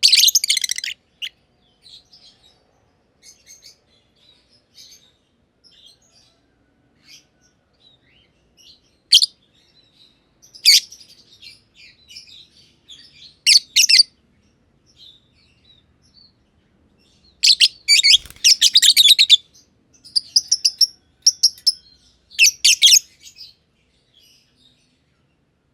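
Masked lovebirds chirping: loud bursts of rapid, high-pitched chirps at the start and several times later, the longest lasting about two seconds, with softer scattered chirps in between.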